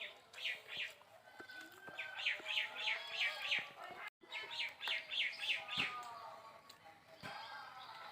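Birds chirping in quick runs of short repeated notes, with a brief dropout about four seconds in.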